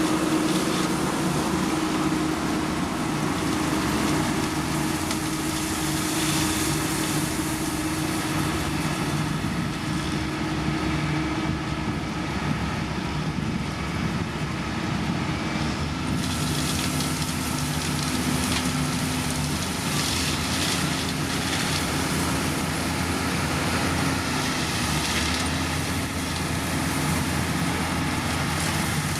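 Heavy diesel construction machinery running steadily, its engine note shifting a little about halfway through.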